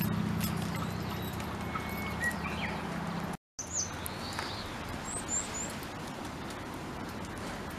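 Outdoor background with small birds chirping, a few short high falling chirps in quick succession about five seconds in. A low steady hum underlies the first few seconds and stops at a brief dropout about a third of the way through.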